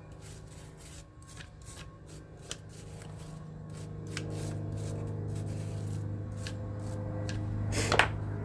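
Small clicks and rattles of fan motor parts being handled, with one louder clack about eight seconds in, over a steady low hum.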